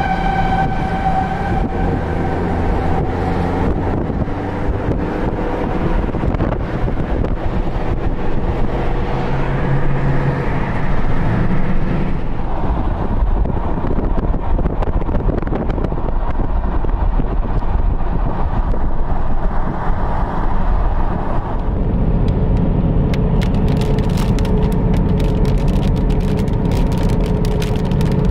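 Steady rush of storm wind, with a warning siren wailing in the first several seconds, its pitch gliding up and down. Raindrops start ticking in about 23 seconds in.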